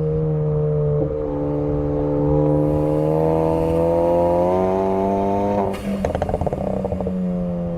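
Ford Focus ST engine, heard through intake and exhaust microphones, pulling under throttle with its note rising steadily. Near the end the driver lifts off and a burst of crackles and pops comes from the exhaust, from the tune's overrun crackle setting. The engine note then settles and slowly falls.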